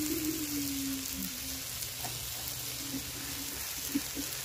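Broccoli, potatoes, carrots and peas sizzling steadily in a hot metal kadai, with a brief metallic scrape of the spatula near the start and a sharp click near the end.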